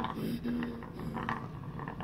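African grey parrots in a nest box giving a run of short raspy calls.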